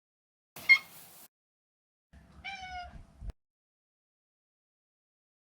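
Maine Coon cat meowing: a short, rough call about half a second in, then a clear, higher meow at about two seconds that cuts off abruptly, followed by silence.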